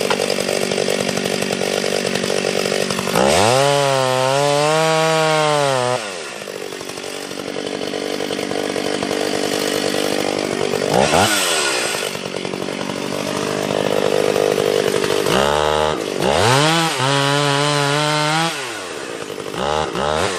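Two-stroke chainsaw working on a felling cut through a large sweet gum trunk. It runs loaded in the wood, and is revved high with rising and falling engine pitch about three seconds in, briefly near eleven seconds, and again around fifteen seconds in.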